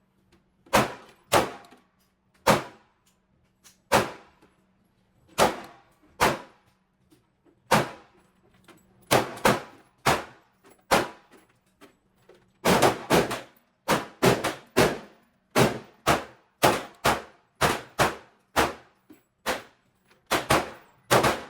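Repeated 9mm pistol shots from a Glock 45 in an indoor range, each a sharp crack with a short echo. They come irregularly, at first a second or more apart, then in quicker strings from about halfway through, over a faint steady low hum.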